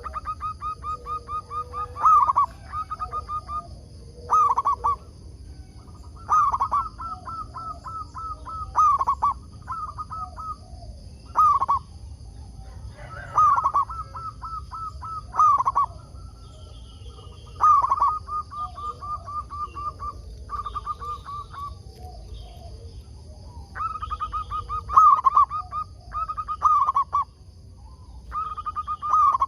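Zebra dove (perkutut) cooing: phrase after phrase of rapid staccato notes, each about a second long and repeated every couple of seconds.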